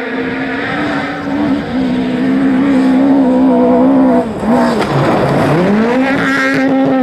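Rally car engine at high revs, growing louder as it approaches. About four seconds in the revs fall away sharply and then climb straight back up, as the driver lifts and gets back on the throttle.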